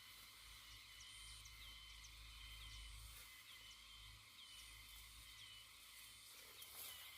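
Faint rhythmic chirping from a calling animal, about two short rising chirps a second, over a low steady hum.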